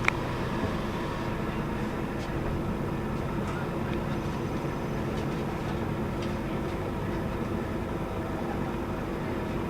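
Scania K280UB city bus running steadily, heard from inside the passenger cabin: an even engine and road drone with a few faint light rattles.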